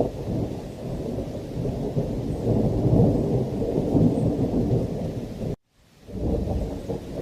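Heavy rain with rolling thunder, a deep continuous rumble that swells in the middle. It cuts out suddenly for about half a second near the end, then resumes.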